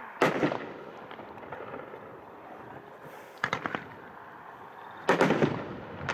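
Aerial shells from a 9-shot, 3-inch consumer fireworks cake bursting: a loud bang just after the start, a short cluster of sharp cracks midway, and another bang about a second before the end.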